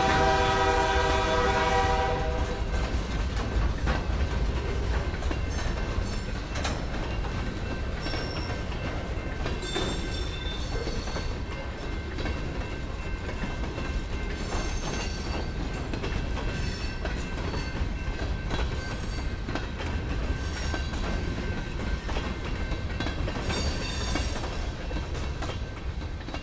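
Freight train passing close by: a locomotive horn sounds at the start and cuts off about two seconds in. Then open-top gondola cars roll by with steady rumbling, wheels clacking over rail joints and high-pitched wheel squeals now and then. The sound fades as the last car passes near the end.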